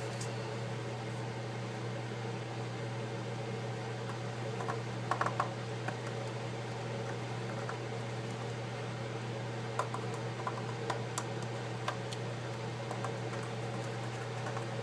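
Steady low hum of room or equipment noise, with a few small clicks and taps as a part is pressed into place in the iPad by hand: a short cluster about five seconds in and single clicks later on.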